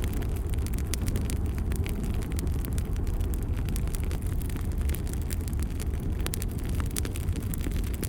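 Bonfire burning: a steady low rumble of the flames with many quick, irregular crackles and pops of burning wood.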